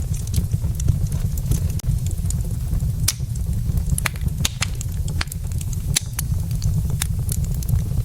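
Wood fire burning in a fireplace: logs crackling, with many irregular sharp pops and snaps over a steady low rumble.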